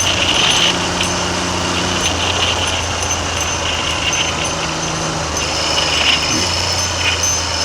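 Triumph Trident's three-cylinder engine running on the move, its note shifting in pitch a few times, under heavy wind noise on the microphone.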